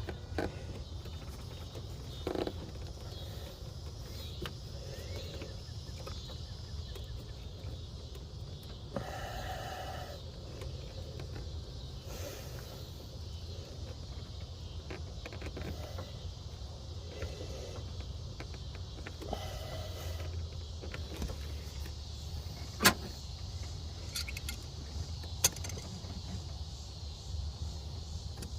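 Scattered small clicks and knocks of hands and tools working a heater-hose connection at the water pump, over a steady low hum. A few sharper clicks come in the later part.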